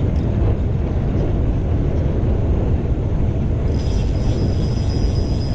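Wind buffeting the microphone of a moving bicycle rider, a steady low rumble. A thin, high steady tone joins in a little under four seconds in.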